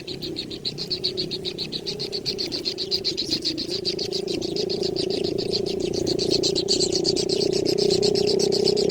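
A young bird's rapid, repeated begging chirps, about nine a second, over a lower steady drone that grows louder.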